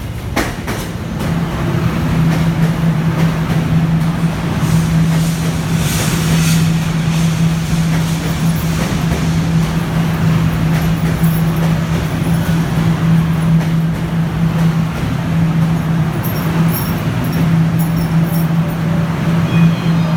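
Guangzhou Metro Line 1 train running, a steady low hum over continuous rumbling noise; it grows louder over the first couple of seconds, then holds steady.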